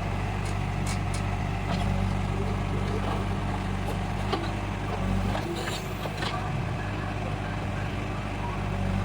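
Heavy diesel engine running at a steady speed, with scattered light clicks and knocks.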